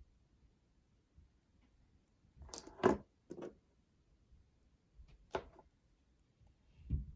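A few sharp clicks and knocks from tools and sterling silver jump rings being handled while the rings are opened. A cluster comes about two and a half seconds in, another click about two seconds later, and a duller knock near the end.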